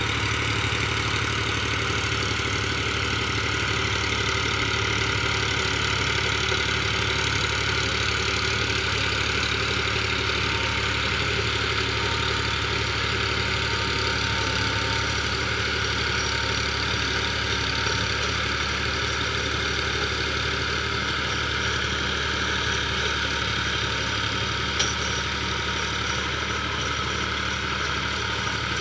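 Tractor engine idling steadily at an even speed, with one brief click near the end.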